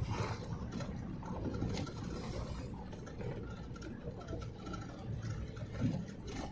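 Motorcycle engine running at a low, steady idle-like rumble, with faint scattered ticks over it.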